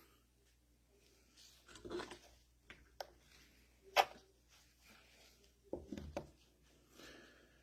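Scattered light clicks and knocks of tools and small parts being handled during disassembly of a mini excavator's hydraulic control valve, the sharpest click about four seconds in, with short rustling around two and six seconds in.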